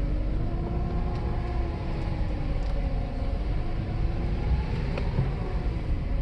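Mercedes-Benz W140 S600's V12 engine and road noise heard from inside the cabin while driving, with a low steady rumble and an engine note that drifts gently up and down.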